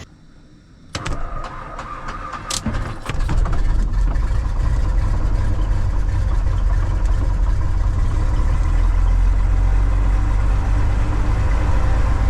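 Cessna 180's piston engine being started. The starter cranks from about a second in, and the engine catches about three seconds in, then settles into a steady run.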